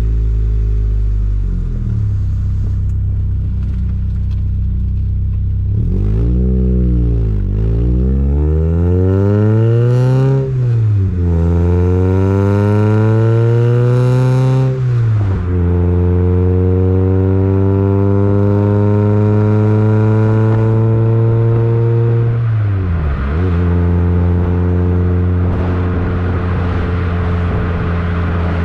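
Volkswagen Mk2 GTI's 2.0-litre 16-valve four-cylinder engine and exhaust on the move. It runs steadily, then pulls up through the gears, its pitch rising and dropping sharply at upshifts about a third of the way in and again about halfway. It then settles into a steady cruise, with a brief lift off the throttle near the end.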